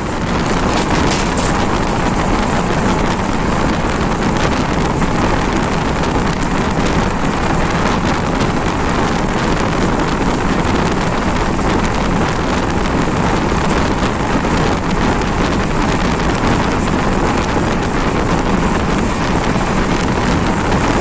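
Loud, steady running noise of a moving passenger train, with wind buffeting the microphone.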